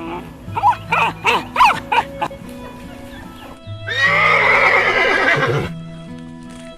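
Horse whinnying: a few short calls, then one long, loud whinny about four seconds in that falls in pitch. Background music plays under it.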